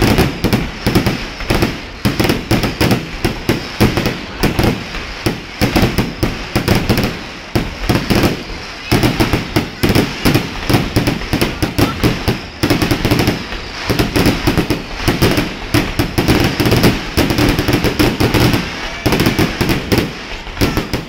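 Aerial fireworks display: shells bursting in a rapid, unbroken run of bangs and crackles, many per second.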